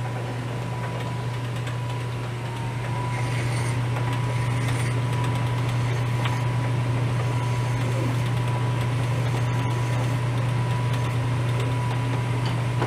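Metal lathe running at steady speed with an even motor hum and a thin steady whine. It gets slightly louder about two seconds in.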